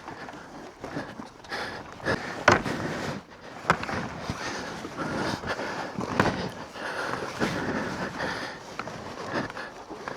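Adventure motorcycle ridden slowly over a rough, muddy track: the engine runs under changing throttle while the bike knocks and rattles over bumps, with sharp clunks about two and a half, three and a half and six seconds in.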